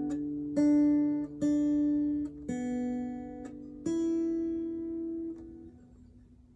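Acoustic guitar struck chord by chord, four strums in the first four seconds, the last chord left ringing and fading away near the end.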